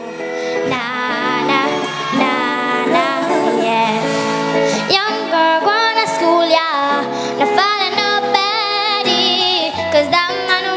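Live band music fading in, with a female singer's wordless vocal line rising and falling over sustained instrument chords.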